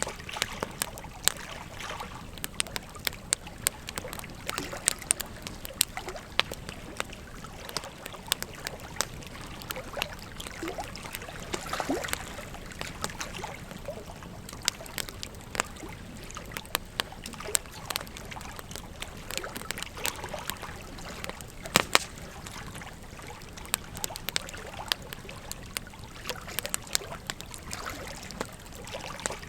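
Wood fire crackling with sharp, irregular pops, the loudest a little past two-thirds of the way through, over the steady rush of flowing river water.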